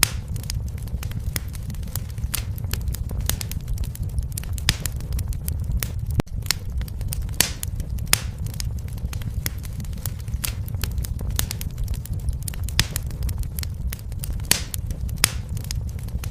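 Fireplace fire crackling: irregular sharp pops and snaps over a steady low rumble of the flames, with a momentary dropout about six seconds in.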